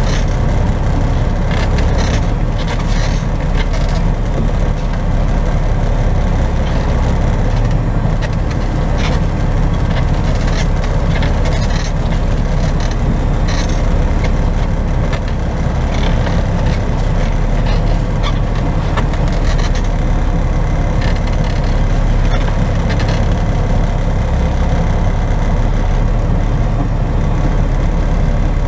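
Semi truck's diesel engine running steadily, a low rumble with scattered light clicks and rattles.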